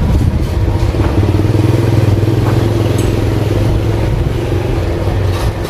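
Electric arc welding: a steady loud buzzing hum with crackle that stops shortly before the end.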